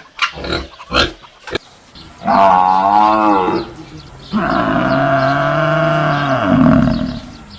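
A cow mooing twice: a shorter call, then a longer, lower one, after a few short grunts at the start.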